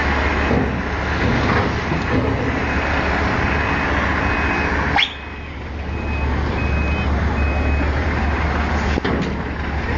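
Truck diesel engine running with a reversing alarm beeping about once a second. Halfway through there is a sudden sharp rising squeal, after which the sound drops for a moment and the engine and beeps carry on.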